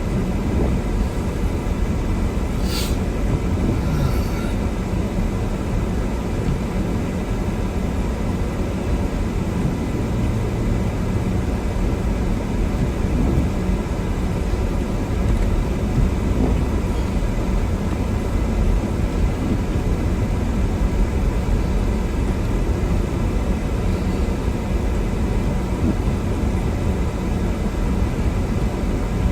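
Steady low rumble of a car driving on a snow-covered road, heard from inside the cabin, with a brief click about three seconds in.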